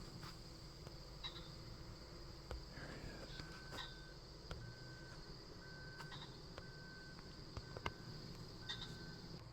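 Faint insects (crickets) chirping in a field: a steady high trill, joined about three seconds in by a short even note repeating about once a second.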